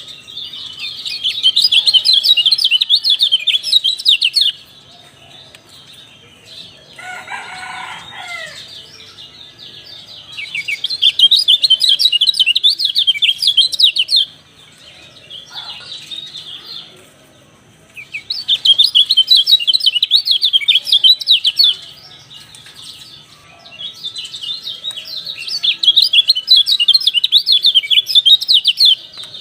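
Kecial dampuk (white-eye) song: four long bursts of rapid, high twittering chatter of about three to four seconds each, with short pauses between. A shorter, lower call falling in pitch sounds in the first pause.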